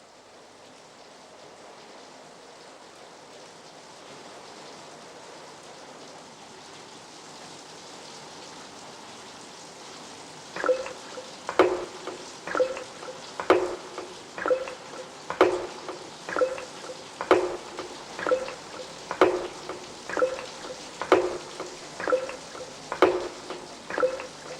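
Rain sound effect opening a house track, a steady hiss that fades in. About ten seconds in, short pitched drip-like notes join it, repeating about once a second.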